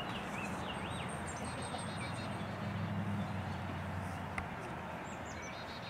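Songbirds chirping and trilling over steady open-air background noise, with a low hum swelling briefly around the middle and a single sharp click about four seconds in.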